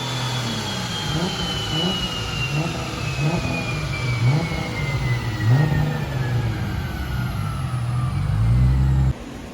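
MKIV Toyota Supra's single-turbo inline-six on a chassis dyno, revving in short repeated blips at low engine speed just after a full pull. A thin high whine falls steadily in pitch over about eight seconds as something spins down. The sound cuts off suddenly near the end.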